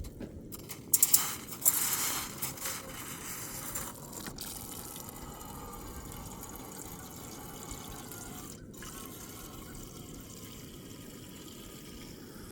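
Running water: splashing for a few seconds, then a steady trickle, as from a small spring or stream.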